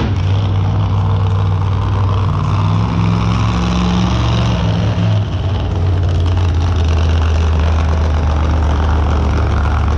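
Big show-vehicle engine running loud, its pitch shifting as it is worked on the throttle. It dips briefly about halfway through, then holds a steadier note.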